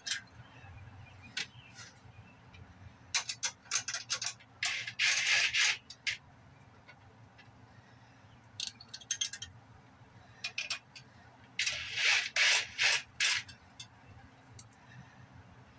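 Tools and small machine parts handled on a workbench: scraping and rubbing in two longer bursts with scattered short clicks between them.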